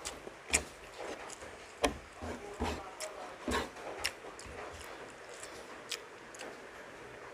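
A person eating close to the microphone: chewing and mouth smacks, with about six sharp clicks scattered at uneven intervals.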